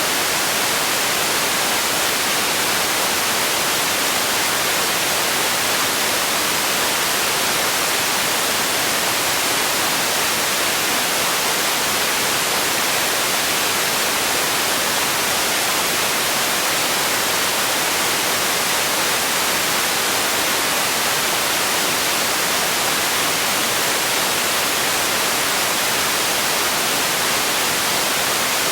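Steady, unchanging white-noise hiss, like radio static, with most of its energy in the high end.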